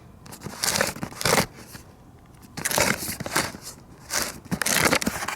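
Several short bursts of crunching, rustling noise, about a second and a half apart.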